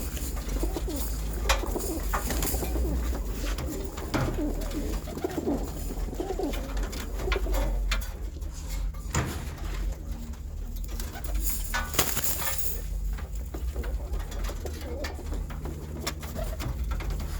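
Domestic pigeons cooing repeatedly in a box, with a few sharp knocks over a steady low hum.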